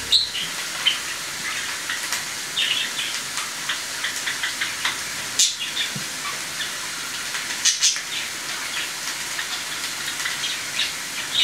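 Small birds chirping, many short high calls scattered over a steady hiss, with two sharp clicks in the middle.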